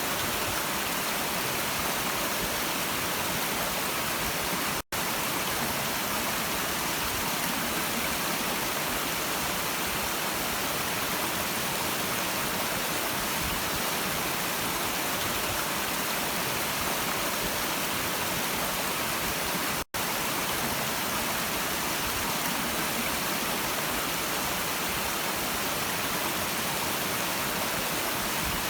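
Stream water rushing steadily. It cuts out for an instant twice, about five seconds in and again about fifteen seconds later.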